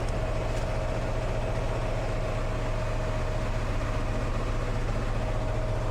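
Diesel engine of a parked semi truck idling: a steady low hum with a faint, even whine above it.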